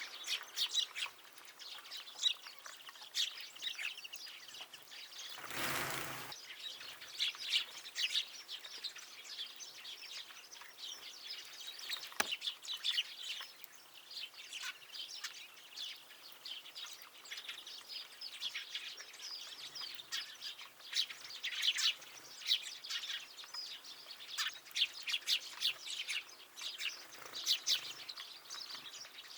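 Small songbirds at a winter feeder chirping and twittering continuously in many short overlapping calls. There is a brief rush of noise about six seconds in and a single sharp click about twelve seconds in.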